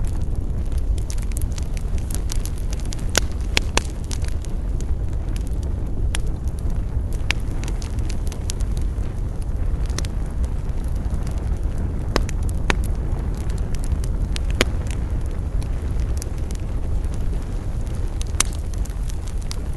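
Campfire burning with a steady low rumble and scattered sharp crackles and pops of burning wood.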